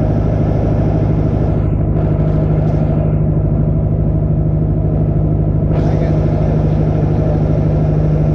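Small airplane's piston engine running steadily: a loud, constant drone with a fine, even pulse. A hiss over it fades about three seconds in and comes back about six seconds in.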